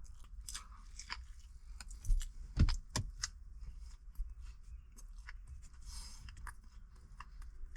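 A person chewing a mouthful of sandwich close to the microphone: irregular soft crunches and wet mouth clicks, with a few louder ones about two to three seconds in.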